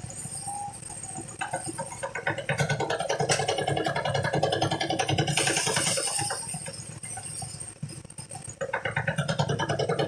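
Engine-driven rice threshing machine running with a fast, even pulse. It eases off about seven seconds in and picks up again near the end.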